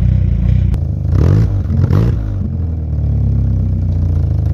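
Car engine idling, revved briefly twice between about one and two seconds in, with a sharp click just before.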